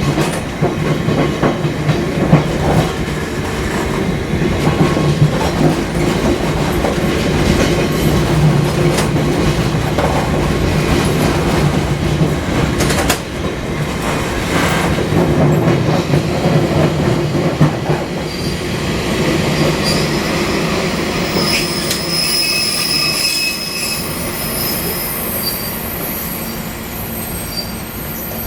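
Fukui Railway 200 series electric car running along the line, with a steady hum and rumble of wheels on rail and a few knocks. In the last third, thin high-pitched wheel squeal comes in as the overall sound slowly eases off.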